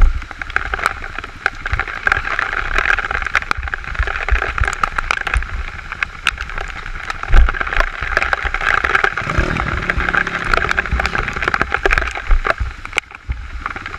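Honda CRF230 dirt bike engine running on a rough trail, with frequent knocks, rattles and low thumps from the bike jolting over the ground. The engine note rises in pitch a little over halfway through.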